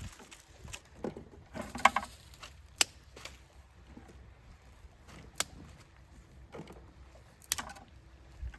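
Scattered sharp clicks and knocks, a few seconds apart, with a short jangling rattle about two seconds in.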